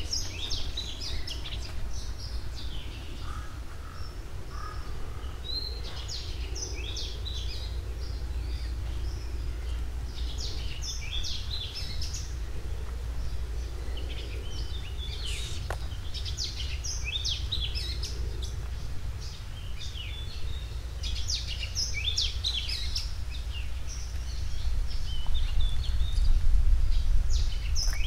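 Birds chirping and singing in repeated bursts of short, high notes, over a steady low rumble of outdoor noise that grows louder near the end.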